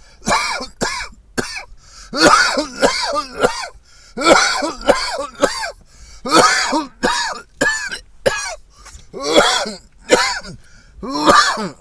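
A person in a coughing fit after a hit from a vape pen: more than a dozen harsh, throaty coughs and throat-clearings, about one a second or faster.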